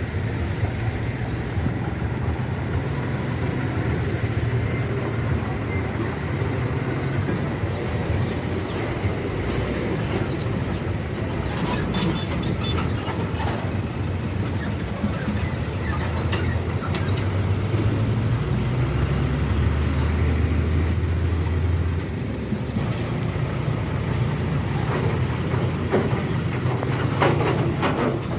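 Heavy diesel truck engine running, its low drone stepping up and down in pitch. Sharp clattering knocks come around the middle and again in a cluster near the end as the wheels bump over the railway track.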